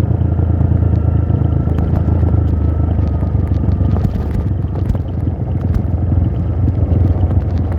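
Trail motorcycle engine running steadily at a constant pace, with scattered clicks and knocks over it.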